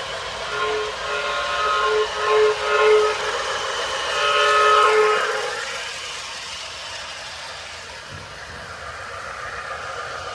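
Toy F7 diesel locomotive's sound-effect horn sounding a string of short blasts, then one longer blast around four seconds in. After that the train's motor and wheels run on the track with a steady hum.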